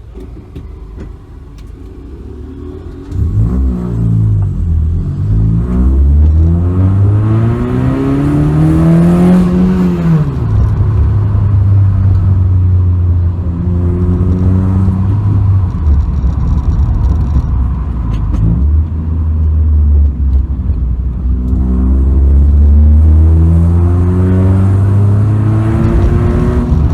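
Honda Civic 1.8 engine accelerating hard. After a quiet first few seconds its note climbs steeply until an upshift drops it about ten seconds in. It then pulls steadily and climbs again in the next gear near the end.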